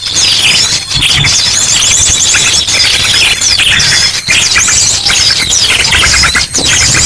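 Bird-lure recording: a dense, noisy chorus of many small birds chirping and trilling at once, mixed with the rapid call bursts of an ashy drongo. A steady high, thin tone runs under the chorus for about the first half.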